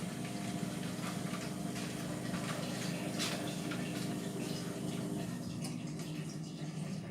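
Indesit MTWC71252WUK washing machine running mid-cycle on a cotton wash: a steady motor hum with water sloshing in the drum.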